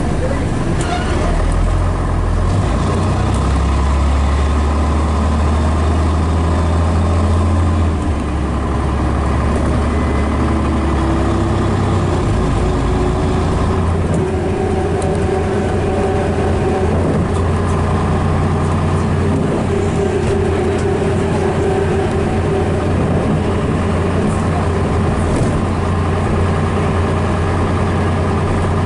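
Scania Metropolitan double-decker bus's DS11 six-cylinder diesel engine running with a steady low drone. The drone changes about eight seconds in, and a whine then rises in pitch over several seconds.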